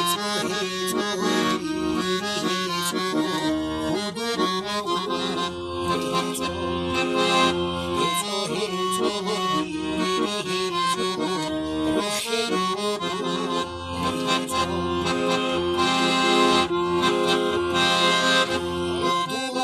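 Accordion playing a traditional folk tune: a melody over held chords, with a bass note pulsing at a regular beat.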